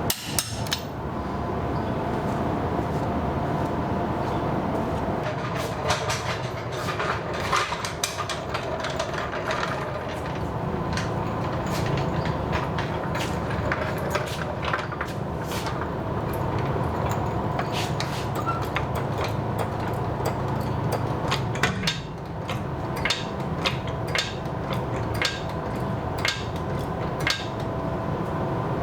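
A steady machine hum with many sharp clicks and knocks scattered over it, coming thickest from about six seconds in.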